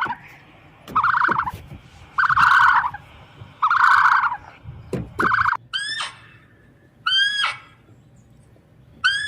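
Bird calls: four loud, rapid rattling calls about a second and a half apart, then, after a change in the background, three shorter ringing calls that rise and fall in pitch.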